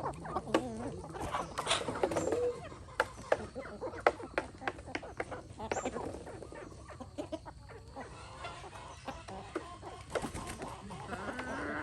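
A flock of free-range chickens clucking, with many short, sharp clicks and taps scattered among the calls.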